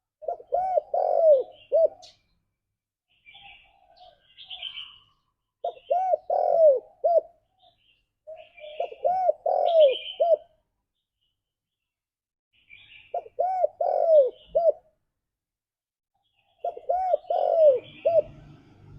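Spotted dove cooing its call: five phrases of three or four arched coo notes, a few seconds apart. Fainter high chirps come between the phrases.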